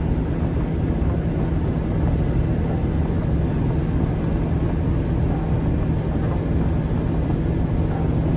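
Steady low rumble of a car engine and road noise, as from a car driving at an even speed, with a constant drone and no changes in pitch.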